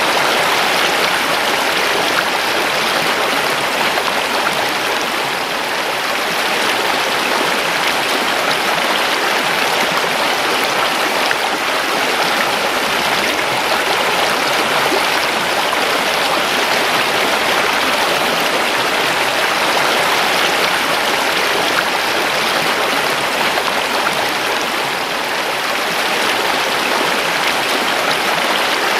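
River water flowing over rocks: a steady, even rush with no break.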